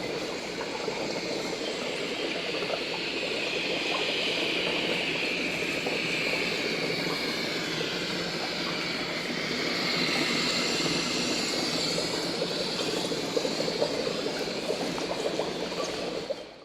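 A horror sound effect: a continuous rushing, water-like noise with slowly shifting whistling tones above it, cutting off abruptly at the end.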